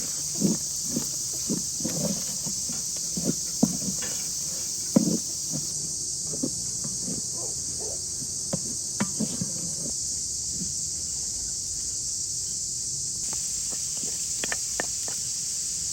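A steady, high-pitched chorus of insects, with irregular soft knocks and clicks through the first ten seconds and a few more clicks near the end.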